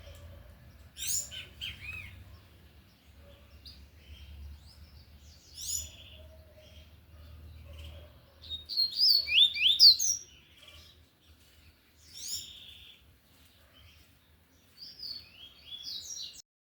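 Double-collared seedeater (coleiro) singing the tui-tui song type loudly, in about five phrases of quick sliding high notes. The loudest phrase comes near the middle, and the sound cuts off just before the end.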